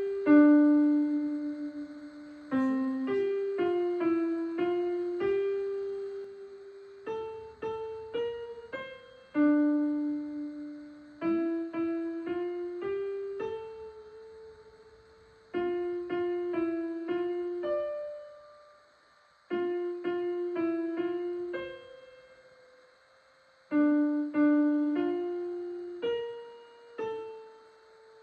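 A piano played slowly: short phrases of single melody notes, each phrase ending on a held note that fades away, with brief pauses between phrases.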